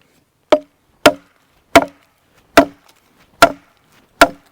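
A machete blade striking wood in six sharp, evenly spaced blows, about three-quarters of a second apart, each with a brief ring.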